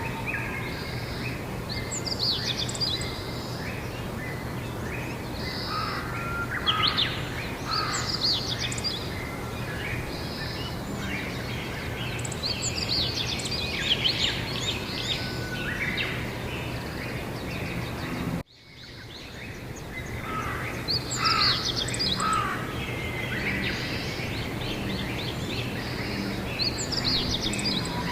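Several songbirds singing and chirping in short, overlapping phrases over a steady background hiss with a faint low hum. About two-thirds of the way through, the sound cuts out for a moment and fades back in.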